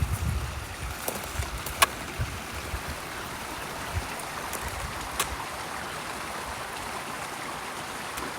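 Steady rushing of running water, with a few clicks and soft thumps in the first couple of seconds.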